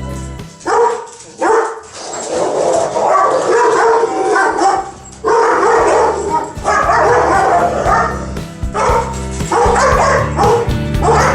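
Dogs vocalizing in repeated bursts of whining and yipping, over background music.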